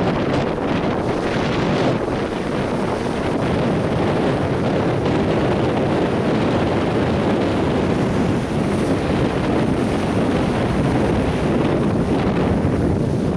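Atlantic Ocean surf washing steadily onto a beach, a continuous loud rush of breaking waves, with wind buffeting the microphone.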